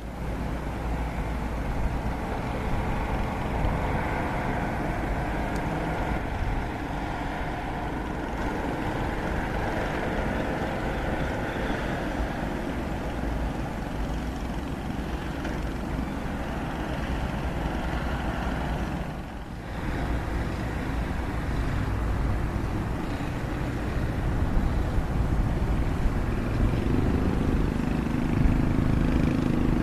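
Komatsu excavator's diesel engine running steadily while working, with a brief drop about two-thirds of the way through and a louder, deeper engine note near the end.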